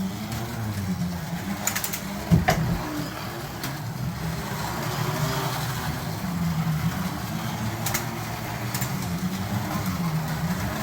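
Carrera Digital 132 slot cars running on the track, their small electric motors whining and wavering up and down in pitch as they speed up and slow through the layout. A few sharp clicks, the loudest about two seconds in.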